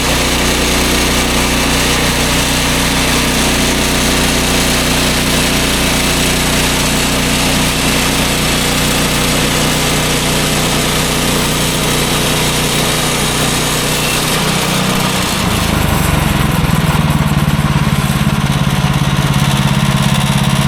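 Small gasoline engine of a portable bandsaw sawmill running steadily under load while the blade cuts through a log, with a high hiss over the engine. About 15 seconds in the engine note rises and the hiss thins, as when the load comes off the engine.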